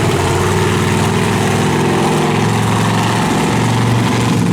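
Monster truck engine running loud, its pitch holding fairly steady with small shifts.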